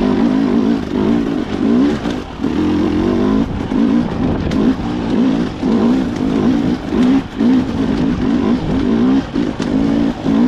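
Two-stroke Honda CR250 dirt bike engine being ridden hard, its pitch surging up and down as the throttle is opened and shut over and over.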